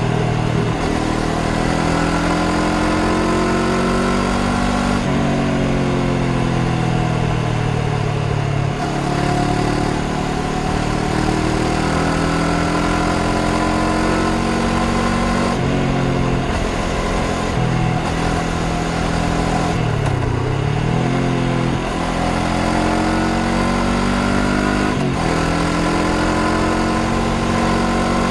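Honda CBR500R's 471 cc parallel-twin engine pulling on the road, its note rising and falling with the throttle and stepping in pitch at several gear changes.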